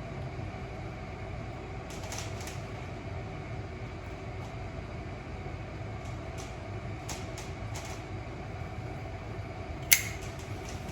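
A tobacco pipe being lit with a Zippo lighter and drawn on: soft puffs and faint scattered clicks over a steady fan-like hum, with one sharp click near the end.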